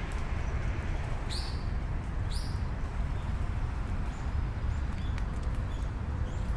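Outdoor ambience: a steady low rumble with two short, high bird calls about one and a half and two and a half seconds in.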